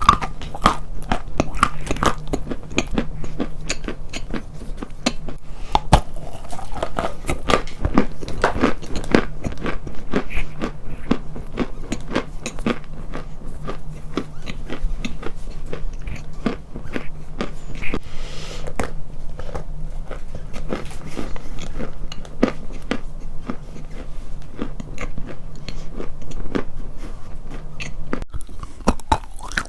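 Close-miked crunching: rapid, sharp bites and chewing of something brittle, packed tightly throughout, over a steady low hum that stops near the end.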